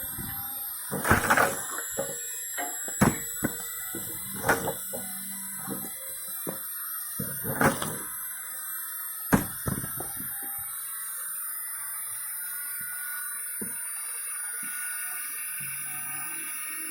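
Firewood being split: a run of sharp wooden cracks and knocks, about five heavy strikes with smaller knocks between them over the first ten seconds, then only a steady background sound.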